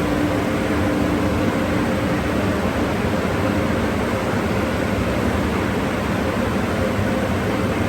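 Car wash tunnel drying blowers running with a steady, loud rush of air and a faint motor hum.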